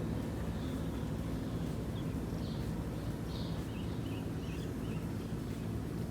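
A steady low drone, with a few short bird chirps about two to five seconds in.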